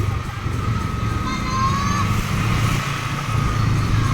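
Small motorcycle engine running steadily under way, with a steady hum and a thin constant whine. About a second and a half in there is a brief high rising chirp.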